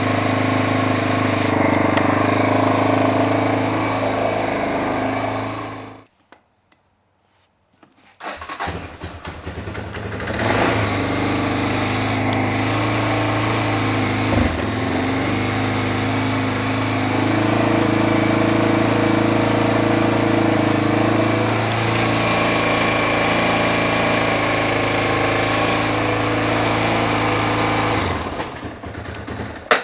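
Yamaha Warrior 350's single-cylinder four-stroke engine idling steadily. It stops about six seconds in, is started again about two seconds later with a few uneven seconds before settling into a steady idle, and then stops near the end.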